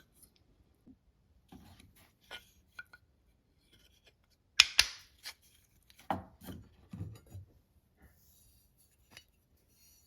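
Hard objects being handled: scattered light clicks, one sharp loud clack about halfway through, then a quick run of four or five duller knocks.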